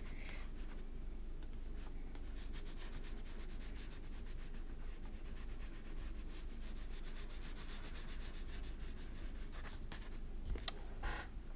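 A coloring crayon rubbing on paper in quick continuous scratchy strokes as colour is laid over a page, with a couple of brief taps near the end.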